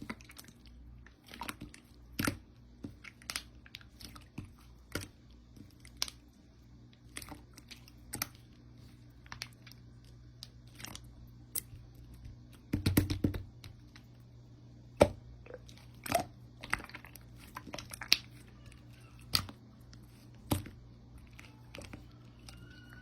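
Slime being squished and pressed by hand, giving irregular sticky pops and crackles about once a second, with a quick burst of crackling about halfway through.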